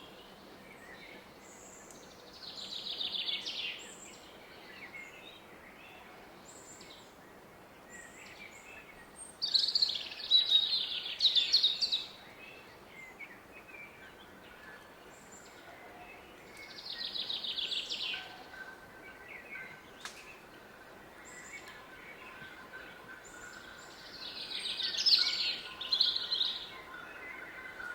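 A songbird in woodland singing a rapid trilled phrase four times, about every seven seconds, the second phrase the loudest. The steady hush of a distant river runs underneath.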